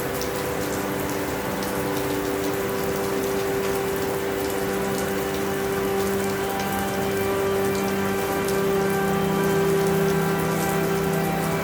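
Steady rain falling on a surface, a dense even patter of drops. Under it runs a low drone of held steady tones that gains more tones partway through.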